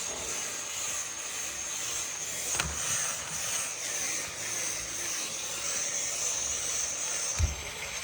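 Welder arc running steadily with a high hiss, cutting off about seven seconds in, followed by a short low thump.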